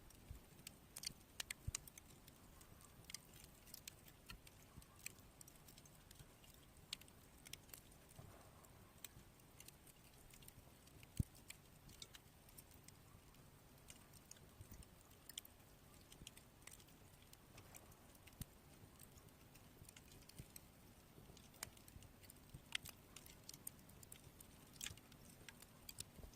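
Firewood burning, crackling with irregular sharp pops over a faint hiss, one pop much louder than the rest about eleven seconds in.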